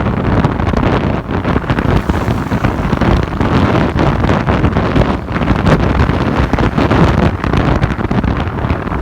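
Heavy wind buffeting the microphone on a moving motorbike, a steady rough rush with uneven flutter, with the motorbike's running and road noise underneath.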